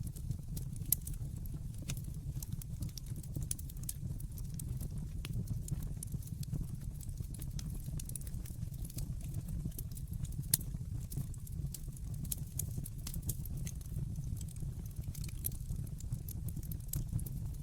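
Wood fire burning in a fireplace: a steady low rumble of flame under irregular crackles and small pops, with two sharper pops about a second in and about ten seconds in.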